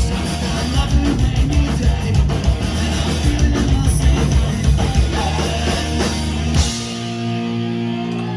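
Loud punk-style rock music with drums and electric guitar; a little under seven seconds in the drums stop and a held guitar chord rings out.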